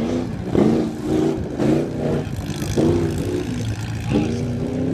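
Truck engine revving hard again and again, its pitch rising in short surges several times over, as the throttle is opened and backed off.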